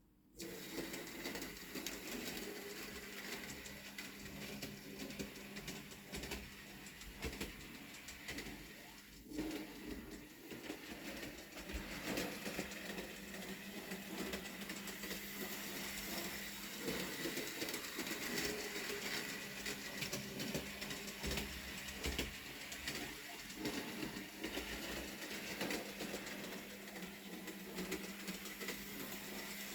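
Bachmann Peter Sam model locomotive running on its track: a small electric motor whirring with a steady hum, and a busy patter of fine clicks from the wheels on the rails. It starts suddenly about half a second in.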